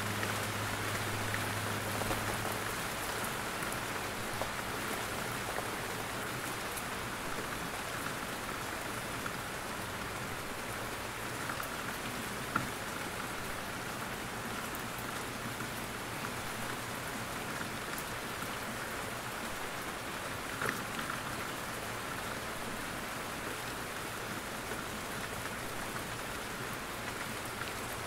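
Steady rain falling, an even hiss of many drops, with a few single louder drops standing out now and then.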